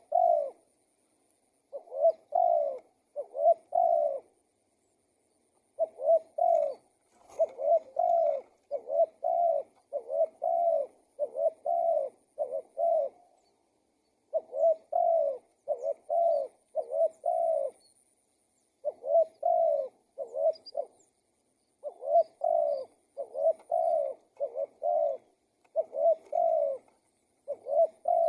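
Spotted dove cooing, a long run of low coos about half a second each, delivered in bursts of two to four with brief pauses between them.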